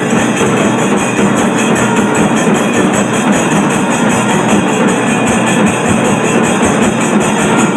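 Tamil temple drum ensemble (Kailaya melam) playing loud and without a break: drums with clashing hand cymbals keeping a fast, even beat.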